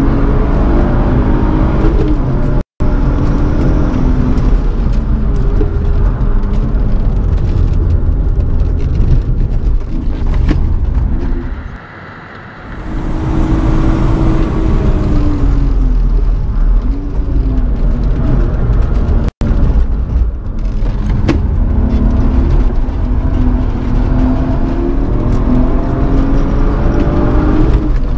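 BMW E36 engine heard from inside the cabin, driven hard on track: its note repeatedly climbs and falls as it is revved through the gears, with tyre and road noise underneath. Around twelve seconds in the engine noise drops sharply for about a second before building again, and the sound cuts out for an instant twice.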